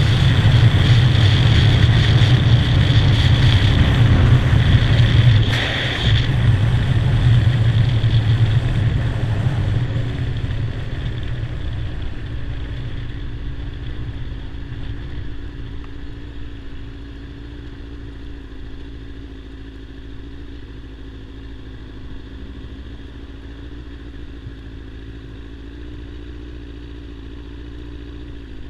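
Kawasaki ZZR600 inline-four engine and wind noise heard from the bike while riding. The engine and wind die away steadily from about six seconds in as the bike slows, then settle into a steady, quieter engine note.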